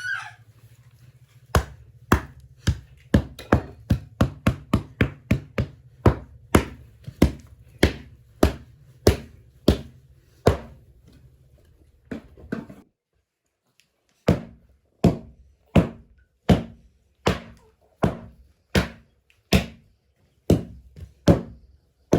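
Steady, rhythmic chopping blows of a hand tool striking something solid, about two a second and then slowing to about one and a half a second, with a short break near the middle.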